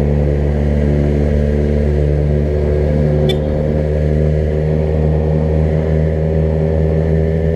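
Car engine running steadily at an even speed while driving. There is a brief click about three seconds in.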